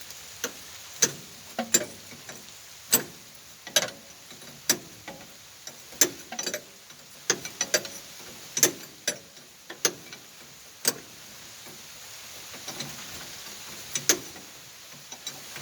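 Irregular sharp metallic clicks and knocks, roughly one a second, from hand tools and fittings being worked on the backhoe's power-steering hoses. A steady hiss of rain runs underneath.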